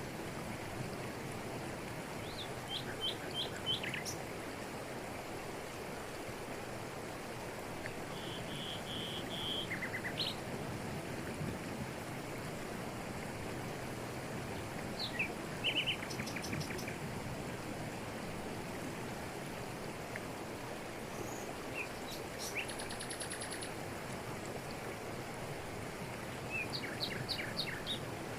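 Waterfall rushing steadily over rocks, with birds calling above it in short runs of quick high notes about five times.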